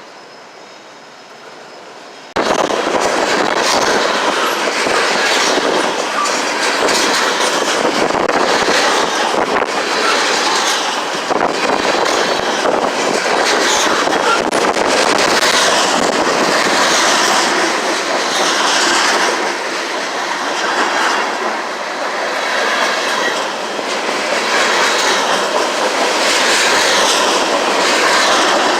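Freight train rolling past close by, its wheels clattering over the rail joints in a loud, continuous rumble that starts suddenly about two seconds in.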